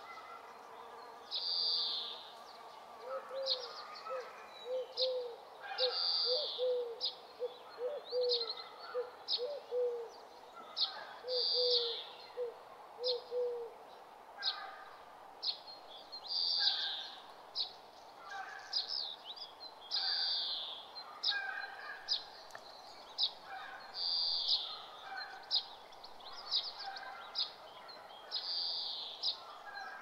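Birds calling: short high calls repeating every second or so, with a run of quick, low repeated notes from a second bird between about 3 and 13 seconds in.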